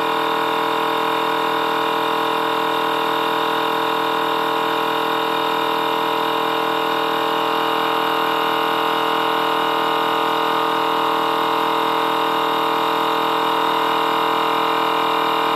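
A small electric motor running steadily, a constant whine with a fast low pulsing underneath.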